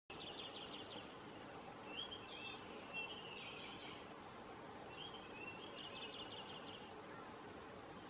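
Wild birds calling in the bush over a faint outdoor hiss: rapid, high trills near the start and again about six seconds in, with short rising chirps and whistles in between.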